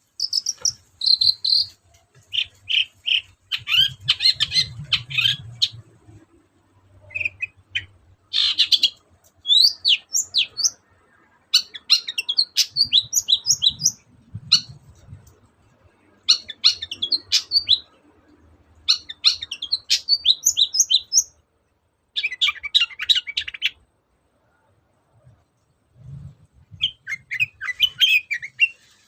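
Long-tailed shrike singing in rapid bursts of quick, high sliding notes, with short pauses of a second or two between phrases and a longer pause a little past the middle.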